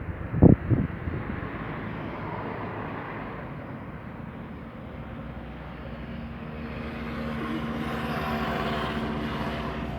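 A low thump about half a second in, then a steady engine hum that grows louder in the second half.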